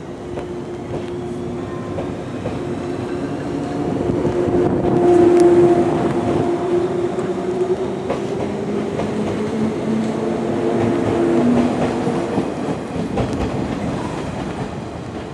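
JR East 183 series 1000 electric multiple unit pulling out of the station and running past, with a steady whine of several tones and wheels clicking over the rails. It grows louder over the first five seconds or so, then holds.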